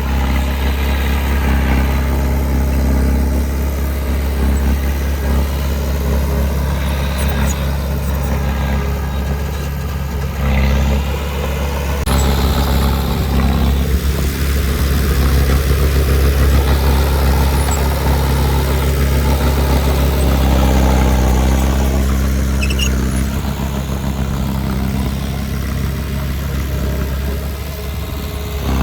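Diesel engine of heavy earthmoving machinery running steadily, rising and falling a little in pitch now and then as it works.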